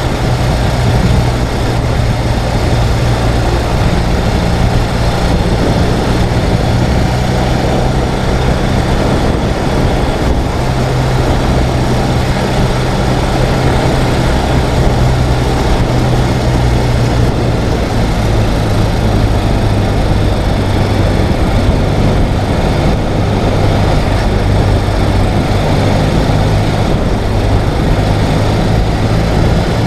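Ural sidecar motorcycle's air-cooled boxer-twin engine running steadily at road speed, its note shifting slightly a few times, with a constant rush of wind noise.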